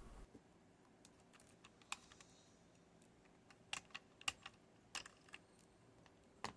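Near silence broken by about a dozen faint, sharp clicks at uneven intervals, some in quick pairs.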